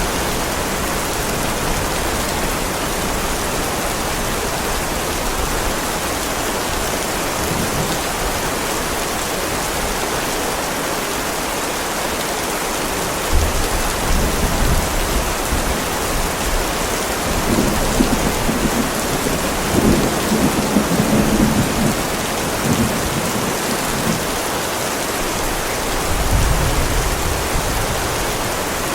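Heavy rain falling steadily on a driveway. From about halfway through, thunder rumbles low several times over some fifteen seconds, then fades back to rain alone.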